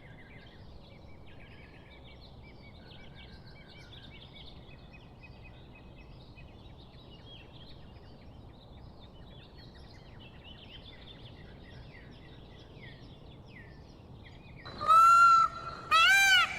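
Songbirds chirping faintly over a low steady background hiss. Near the end a much louder pitched animal call breaks in and repeats in arching notes about twice a second.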